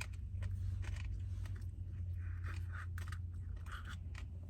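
Close-up chewing and crunching of food, with scattered sharp clicks and short crackly bursts, over a steady low hum.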